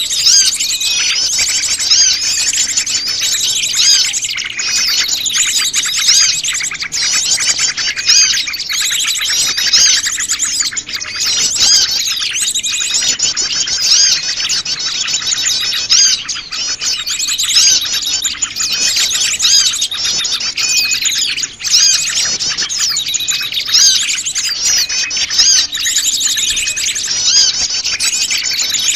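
Many small wild birds chirping and twittering over one another in a dense, unbroken chorus of quick high-pitched calls and trills.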